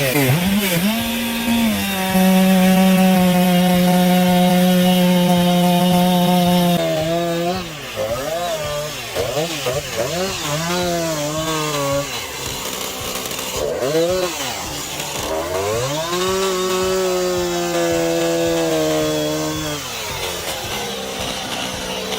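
Chainsaw engine running at high revs, steady at first, then dipping and wavering in pitch through the middle as the chain cuts into wood, then steady again near the end.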